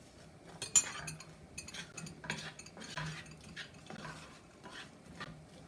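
A cooking utensil stirring chopped onion in a pan, scraping and clinking against the pan in irregular strokes, with one sharp clink just under a second in.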